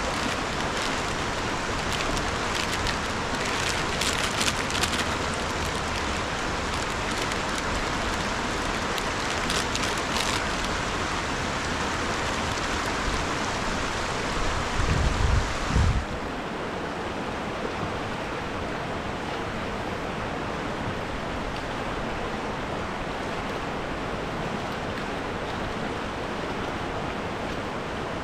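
Steady rushing of river water, with scattered small cracks and crinkles in the first ten seconds and a brief low rumble a little past the middle. About halfway through, the hiss suddenly turns duller and a little quieter, and it stays that way.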